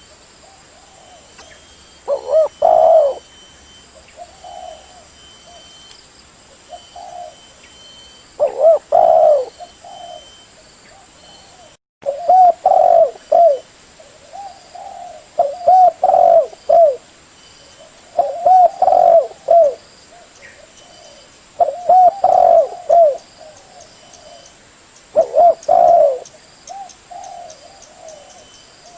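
Spotted dove cooing: loud phrases of several short coos, repeated about every three to four seconds, with softer coos between them.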